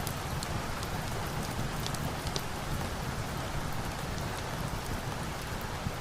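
Steady rain falling, with scattered sharp crackles from a log fire in a fireplace mixed in.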